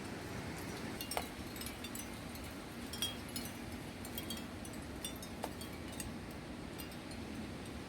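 Wind chimes tinkling irregularly in the wind, with scattered light clinks and a few ringing notes, the clearest about a second and three seconds in, over a steady rush of wind.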